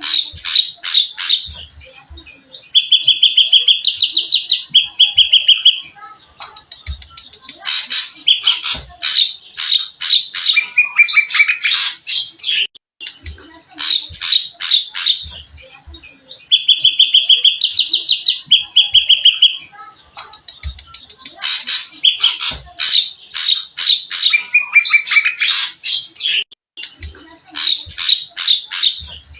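Recorded songbird song: rapid series of sharp, high notes alternating with steady trills lasting a few seconds, the same phrase sequence repeating about every 14 seconds as a looped recording.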